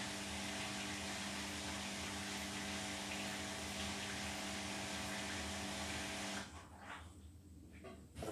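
Beko WTK104121W washing machine's drain pump running, a steady hum over rushing water, which cuts off suddenly about six and a half seconds in.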